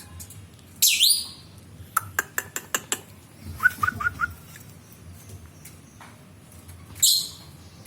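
Lovebirds calling: a loud, shrill screech sweeping downward about a second in, and another screech near the end. Between them come a quick run of sharp clicks and a few short chirps.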